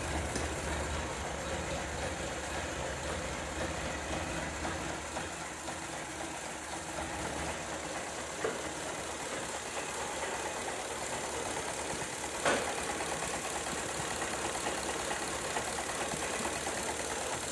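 Old Ford engine idling steadily just after a cold start, purring. A single short knock about twelve seconds in.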